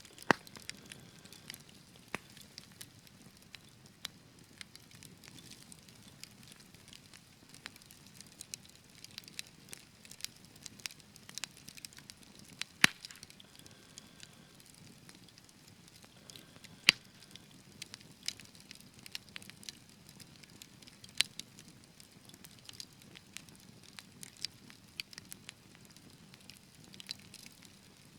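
Fire burning in a fireplace, crackling with frequent irregular sharp pops and snaps over a faint low rush; two pops, about 13 and 17 seconds in, are much louder than the rest.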